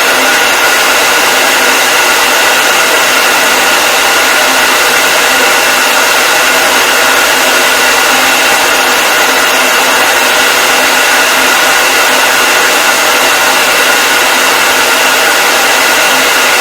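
Hair dryer running steadily and loudly: a constant rush of air with a steady motor whine, unchanging throughout.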